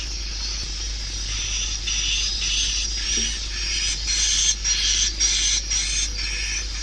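Swiftlet calls from a lure-sound recording used to draw swiftlets to a nesting house: rapid, repeated high chirps and twitters in short runs, over a steady low hum.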